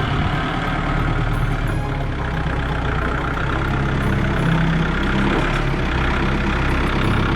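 Tractor engine running steadily, cutting off suddenly near the end.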